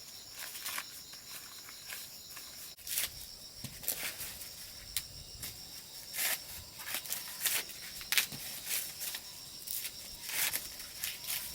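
A steady high-pitched insect trill, probably cicadas or crickets, runs throughout. Over it come irregular rustles and crackles of dry plant material being handled or walked through.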